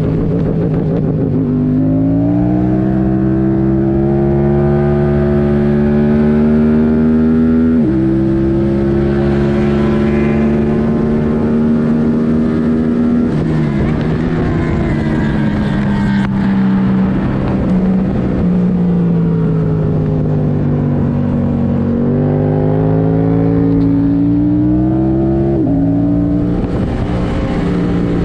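2022 Yamaha R7's parallel-twin engine, airbox removed and running a MIVV Delta Race exhaust, pulling hard through the gears at track speed. Its pitch rises, then drops suddenly at each upshift, about eight seconds in and again near the end. In between it falls away as the bike slows for a corner.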